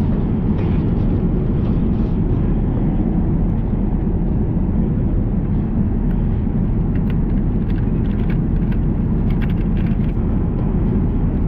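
Steady, loud low rumble of an airliner's engines and airflow heard from inside the cabin, with a few faint ticks near the end.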